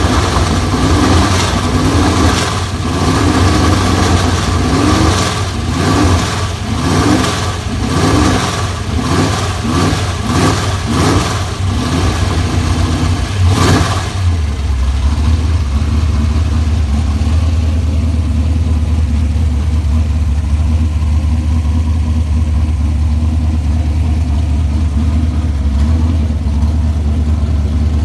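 Chrysler 440 big-block V8 with a tunnel ram, revved in a series of quick blips for about the first half, then settling to a steady idle.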